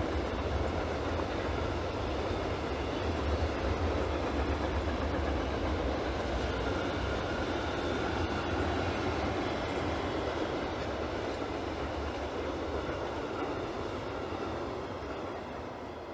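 Freight train of open and flat wagons rolling past, a steady rumble of steel wheels on rail that fades over the last few seconds as the train moves away.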